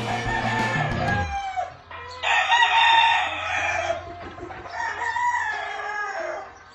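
Gamefowl rooster crowing: one loud crow starts about two seconds in and lasts nearly two seconds, followed by a second, weaker call. Background music stops in the first second and a half.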